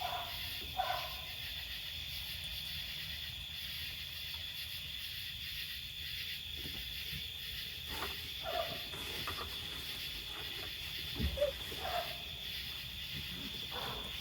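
Border Collie puppies making a few short, faint squeaky yips and whines at scattered moments, over a steady high-pitched background hum.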